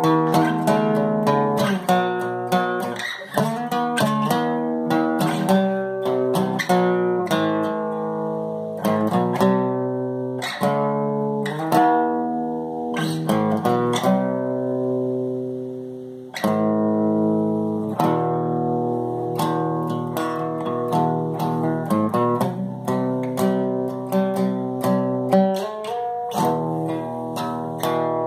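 Solo guitar playing a tune in picked single notes and chords. About halfway through, a chord is left to ring and die away before the playing starts again.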